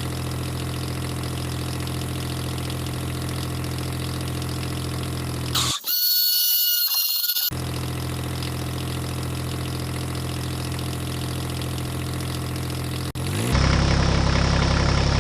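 Steady engine-like drone with an even pitch. About six seconds in it drops out for under two seconds, replaced by a few high thin tones, then resumes and gets louder near the end.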